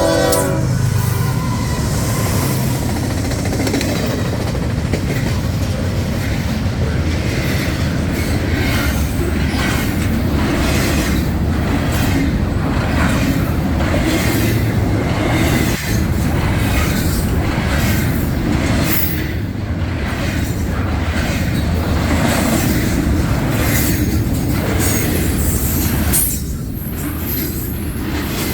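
A freight train rolls past close by, its wheels clattering in a steady rhythm over the rail joints, with wheel squeal above. The last of a horn blast cuts off just as it begins.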